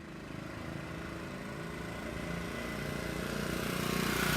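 Honda Grom's 125 cc single-cylinder engine running at a steady idle, its exhaust pulses coming fast and even and growing a little louder near the end.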